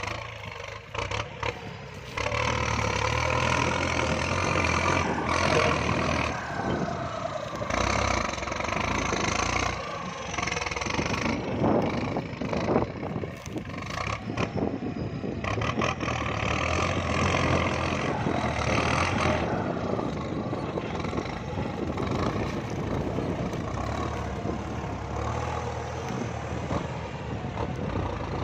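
Kubota MU5702 tractor's diesel engine running steadily under load while plowing, with rattling and clatter as the tractor bounces over combine-harvester ruts.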